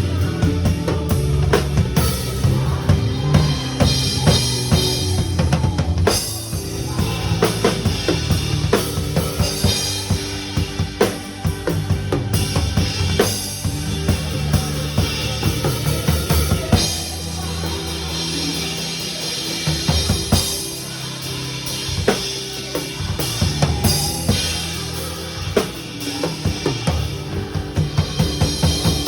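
Drum kit played along with a gospel worship song: steady kick and snare strikes with cymbals, over a backing track with bass and keys. The beat thins out briefly near the middle, then builds again.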